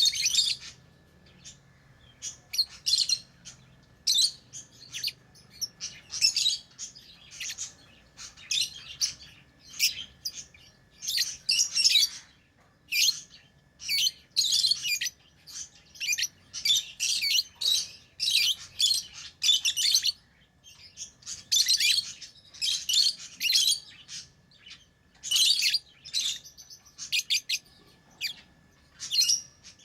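Pet lovebirds chirping: shrill, high chirps in quick irregular bursts, one after another without a break.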